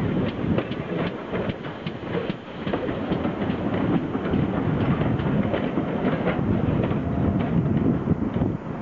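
Rake of passenger coaches behind a small prairie tank steam locomotive rolling past close by, with a steady rumble and repeated clicking of wheels over the rail joints.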